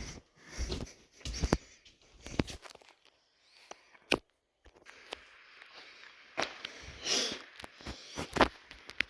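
Scattered soft thumps, taps and rustling, like people shifting and stepping about on a floor, with a few sharper knocks near the start and a couple more in the second half.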